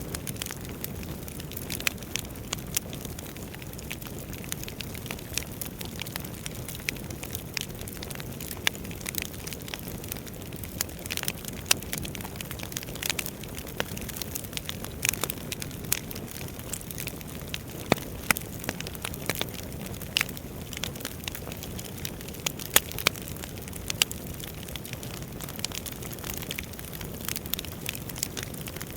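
Wood fire burning in a fireplace: a steady low rumble of flames with frequent, irregular sharp crackles and pops of the burning logs.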